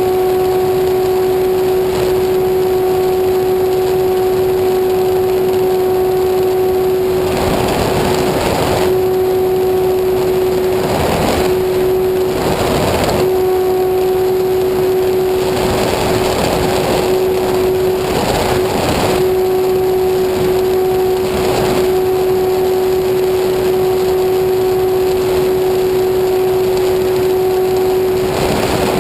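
Small engine of a homemade aircraft running at a constant speed with a steady high-pitched drone. Brief rushes of noise pass over it every few seconds.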